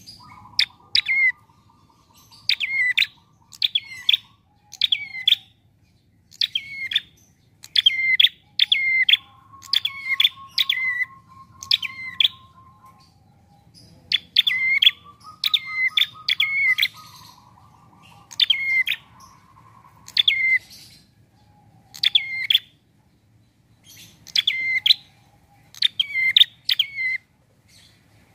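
Caged prenjak, a small warbler, calling: sharp, quick notes in twos and threes, repeated roughly once a second with short pauses, under a lower, dry rattling trill that comes and goes for a second or two at a time.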